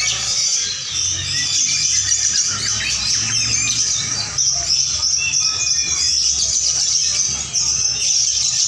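Many lovebirds chirping and trilling at once in a dense, continuous, high-pitched chorus.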